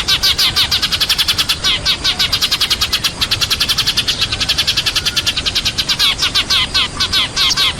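Sparrows chirping in a dense, continuous chatter of rapid overlapping chirps, many a second. This is a flock-calling lure recording of the kind used to draw sparrows in.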